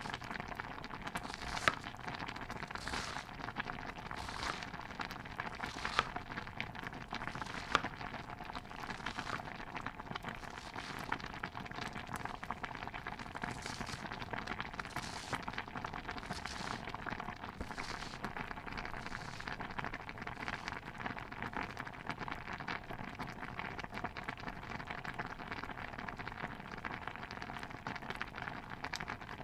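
Stew bubbling in a pot with a steady dense crackle, soft hissing swells every second or so, and a few sharper pops about 2, 6 and 8 seconds in.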